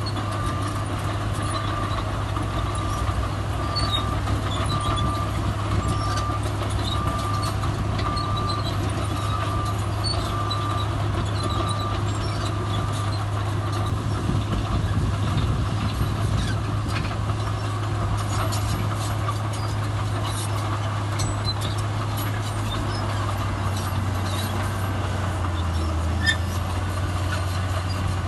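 Heavy diesel earthmoving machinery running steadily, with a reversing alarm beeping about once a second that stops about halfway through.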